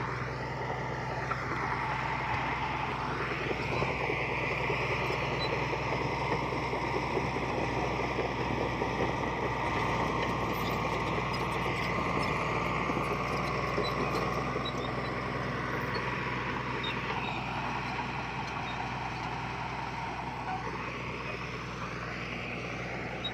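Heavy earthmoving machinery's diesel engine running steadily under load, with a high whine that slides up and down.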